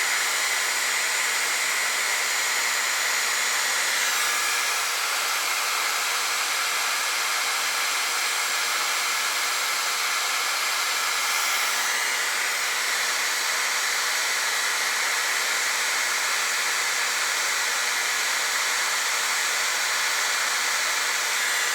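Steady blowing hiss of a heating tool warming a rusted, seized anti-roll bar link fastening to free it.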